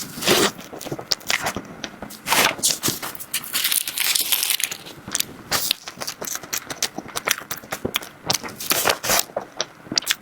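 Close-miked eating sounds from a dessert mukbang: bites and chewing with many small crackles and clicks in an irregular run.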